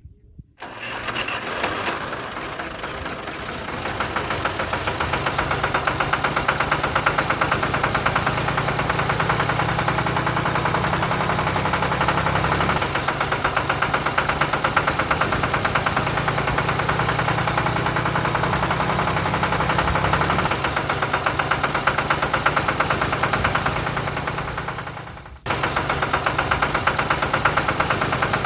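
A small engine starts up and runs with a rapid, even firing beat. It cuts off abruptly about 25 seconds in and comes straight back.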